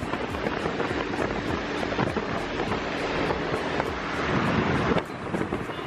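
Wind rushing and buffeting over the microphone of a moving motorcycle, a steady dull noise.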